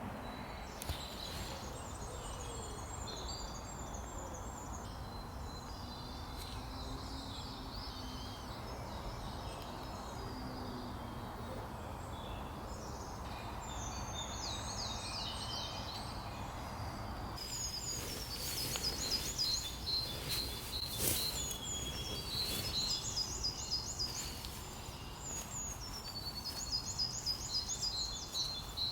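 Several songbirds singing in woodland, with short repeated high chirping phrases that grow busier about halfway through, over a steady low background hum.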